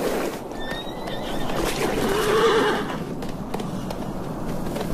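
A Namib desert horse whinnying, one call about two seconds in.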